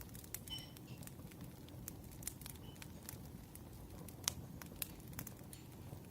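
Wood fire crackling: irregular sharp pops and snaps over a low steady rumble, the loudest pop about four seconds in.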